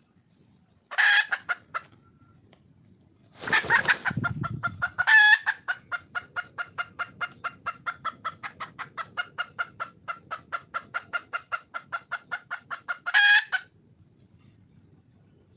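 Female red junglefowl (wild hen) calling for a mate: a short run of clucks, then a louder, rougher burst, then a long even train of rapid clucks, about five a second for some eight seconds, ending on a louder call.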